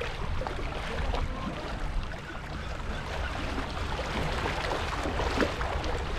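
Steady wash of sea surf against the shore, with wind noise on the microphone and a few faint scattered clicks.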